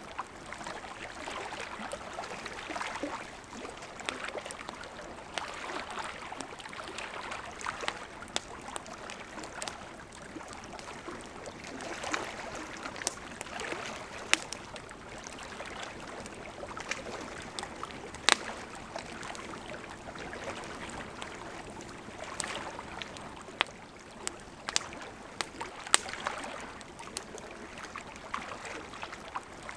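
Wood campfire burning: a steady hiss of flames with scattered sharp crackles and pops from the burning wood, a few of them much louder than the rest.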